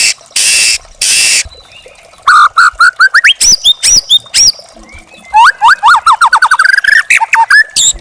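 Young wild white-rumped shama singing. It opens with three short harsh rasping notes, then gives a run of rising whistles, and in the second half a fast series of quick swooping notes.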